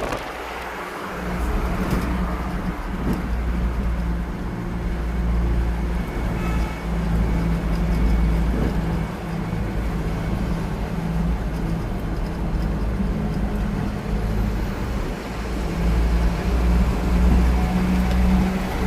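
A vehicle running: a steady low rumble with a constant hum.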